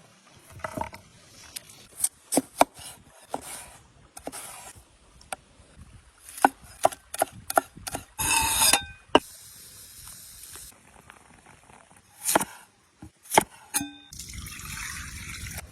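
Cooking preparation sounds: a run of sharp knocks and clinks of utensils against metal pots and bowls, some ringing briefly. Short stretches of handling noise come between them, and a steady hiss starts about fourteen seconds in.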